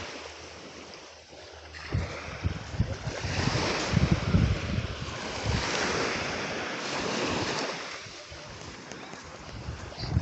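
Wind buffeting the microphone in gusts, over the steady wash of small waves on a beach.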